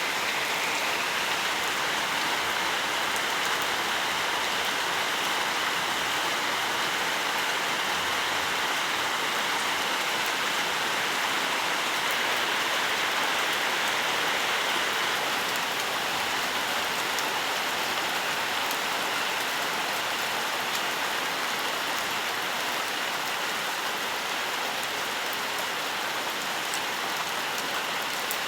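Gentle rain falling steadily: an even hiss of rainfall with faint scattered drop ticks, unchanging in level.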